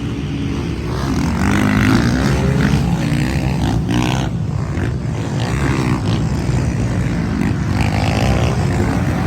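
Motocross motorcycles racing, their engines revving up and down in pitch.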